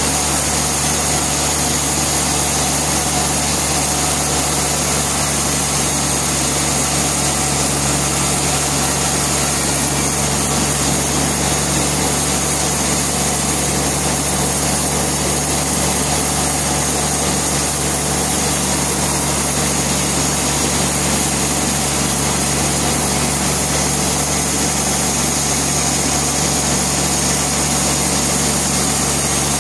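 Sawmill machinery running steadily: a constant engine-like drone whose pitch and loudness do not change.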